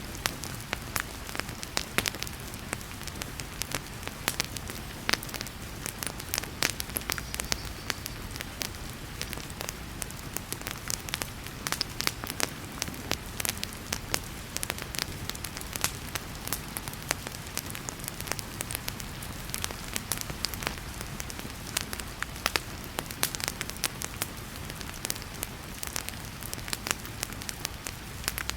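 Wood fire crackling with irregular sharp pops, over a steady hiss of heavy rain.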